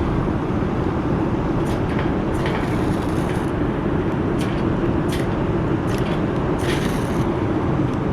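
Ferrocerium fire-starter rod being scraped with its striker to throw sparks onto tinder, about seven hissy scrapes, some short and some longer, over a steady low rumble.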